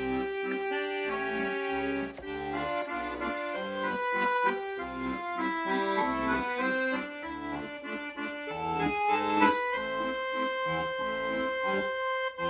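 Accordion playing an instrumental melody of changing held notes, with low bass notes underneath.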